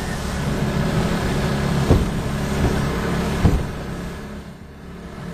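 The boat's motor runs steadily while the V-bottom hull slams into waves with two sharp thumps, about two seconds in and again about a second and a half later. Near the end the motor sound drops in level.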